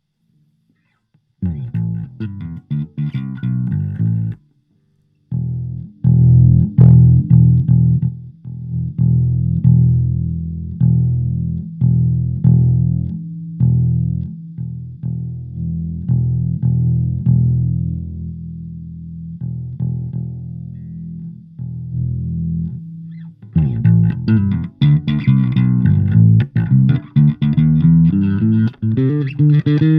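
Electric bass played through a Fender Rumble 25 compact bass combo amp: a short phrase, then a long line of picked low notes. About two-thirds of the way in, after a brief pause, it moves into a busier, brighter passage.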